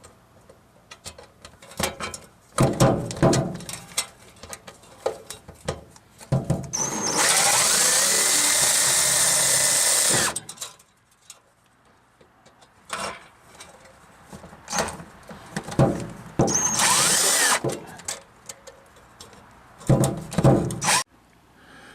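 Power drill driving a screw: one steady run of about three and a half seconds, then a shorter run about ten seconds later, with knocks and rattles of tools and metal around them.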